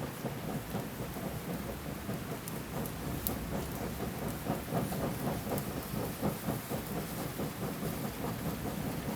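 Steady rain pattering, with a few sharp ticks, one about three seconds in.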